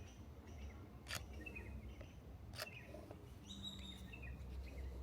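Faint birdsong: scattered short high chirps from wild birds, with two sharp clicks about a second and a half apart.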